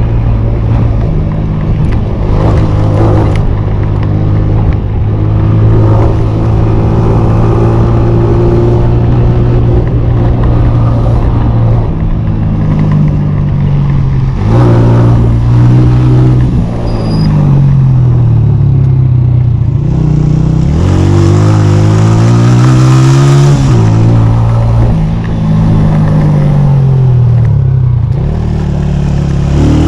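Motorcycle engine running steadily at first, then revved up and eased off again and again from about halfway through, its pitch rising and falling several times.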